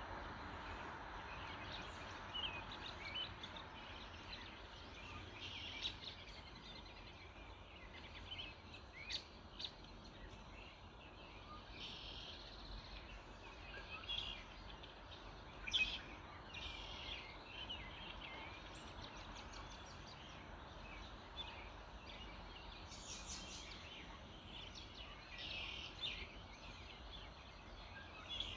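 Several songbirds calling and singing at once, short chirps and trills overlapping throughout, over a steady background hiss, with one sharper, louder call about two-thirds of the way through.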